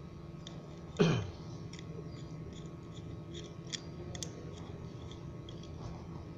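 Scattered light clicks and taps of small parts and tools being handled, over a steady low hum. About a second in there is one loud, brief sound that drops quickly in pitch.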